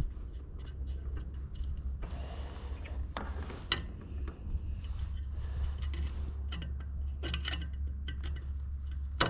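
Scattered small clicks and taps of a tractor headlight bulb and its housing being handled and fitted, a cluster of them late on and a sharp click near the end, over a steady low hum.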